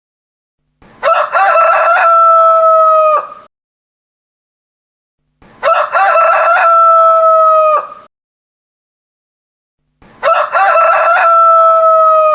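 Rooster crowing three times, about four and a half seconds apart. Each crow lasts about two and a half seconds: a few choppy opening notes, then a long held note that drops off at the end, with dead silence between crows.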